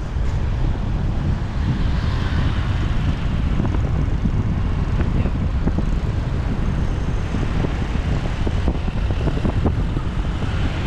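Motorcycle riding through city traffic: a steady low rumble of wind buffeting the microphone over the noise of engines.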